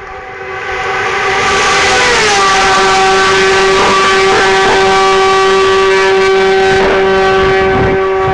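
Hill-climb race car engine at full throttle, holding a high, steady note. Its pitch dips once about two seconds in, as the sound swells to full loudness, then stays level.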